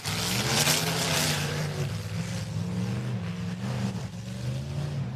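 Demolition derby car engine revving, its pitch rising and falling as the driver works the throttle. A loud rush of noise over the engine in the first second or so.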